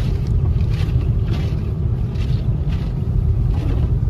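Steady low rumble of road and wind noise inside a car driving through a snowstorm, with faint brief hisses now and then.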